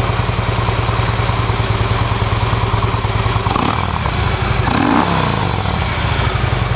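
2012 Harley-Davidson Ultra Limited's 103-cubic-inch V-twin idling through Vance & Hines slip-on mufflers. About five seconds in, a short throttle blip raises the revs, which then fall back to idle.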